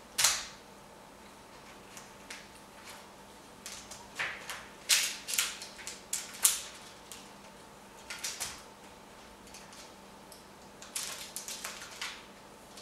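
An African grey parrot rummaging in a box of toys: toys clattering and clicking in irregular bursts of sharp clacks, with the loudest clack right at the start.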